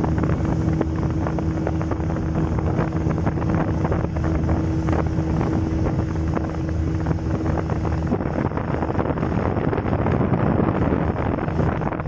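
A small boat's motor running steadily under way, with wind buffeting the microphone and water rushing past the hull. The engine note changes about eight seconds in.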